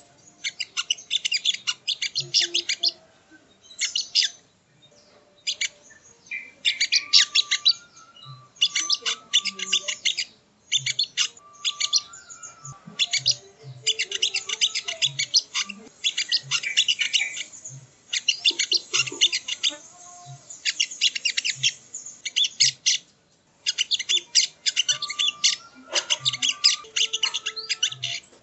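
Sogon (sogo ontong) bird singing: rapid, high chattering trills in phrases of one to three seconds, broken by short pauses, with a few lower whistled notes between phrases.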